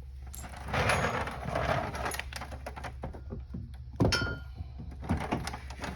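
Metal parts and tools being handled: a second or so of rustling and scraping, scattered small clicks, then one sharp metallic clank about four seconds in that rings briefly.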